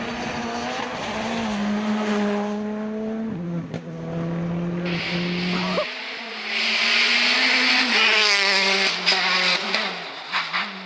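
Rally car engine running hard at held revs, its pitch stepping down a few times as it changes gear, with a loud rushing noise over it for a few seconds midway.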